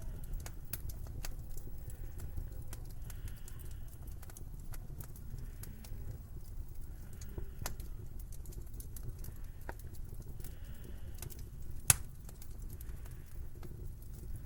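Wood fire in a fireplace crackling over a steady low rumble, with irregular small pops and one sharp, much louder pop about twelve seconds in.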